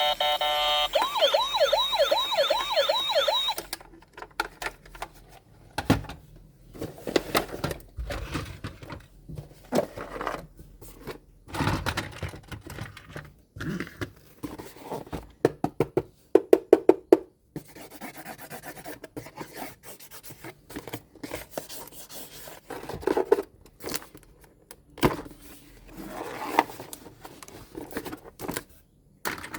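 Toy ambulance's electronic siren sounding a fast warbling wail that cuts off suddenly about four seconds in. After that come scattered clicks, knocks and rustles of plastic toys and packaging being handled.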